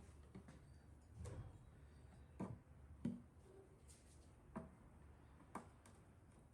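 Near silence with about five faint, scattered clicks and knocks.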